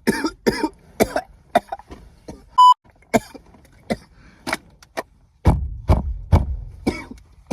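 A man coughing hard and repeatedly, about a dozen harsh coughs with the heaviest near the end: a coughing fit after a hit of smoke. A short high beep about two and a half seconds in is the loudest sound.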